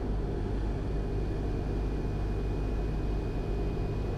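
Cessna 172 Skyhawk's piston engine and propeller running steadily, heard from inside the cockpit, with a faint thin steady high tone that comes in about a second and a half in.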